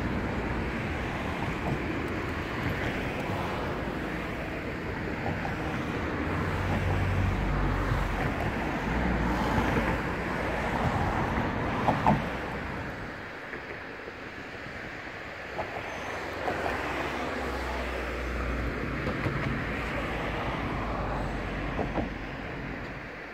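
A Deutsche Bahn train running past on the tracks, a continuous rumble that swells twice, with a few sharp clicks, the loudest about halfway through.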